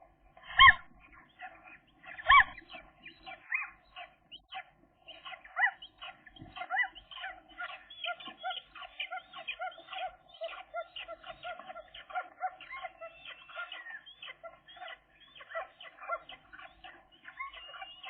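Gull chicks calling with rapid, short, repeated peeping calls, with two louder calls early on, about half a second and two and a half seconds in.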